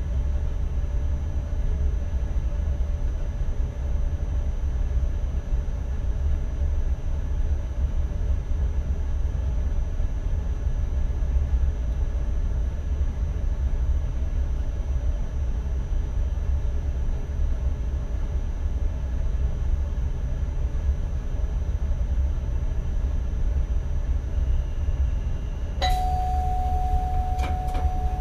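Steady low rumble of an NS ICM (Koploper) electric train running along the track, heard inside the driver's cab. Near the end a steady electronic tone starts in the cab, with a few clicks.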